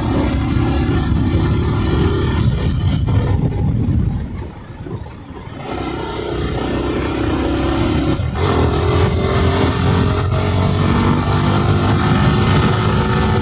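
Yamaha R15M's 155 cc single-cylinder engine heard from the rider's seat on the move. The throttle eases off about four seconds in and the engine note drops away, then it picks up again and from about eight seconds on pulls with a slowly rising pitch as the bike speeds up.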